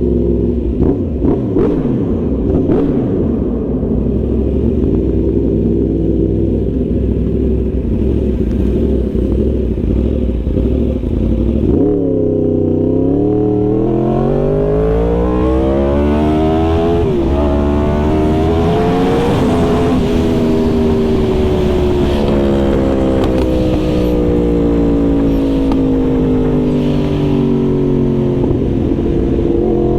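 Yamaha R1 sport bike's inline-four engine with wind noise. It runs steadily for the first dozen seconds, then the revs climb, dip at a gear change, climb again and slowly fall away as the bike slows, rising once more near the end.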